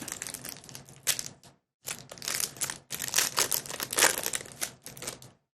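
Foil Pokémon booster pack wrapper crinkling as it is handled and opened, in two stretches of dense crackling with a short pause about one and a half seconds in.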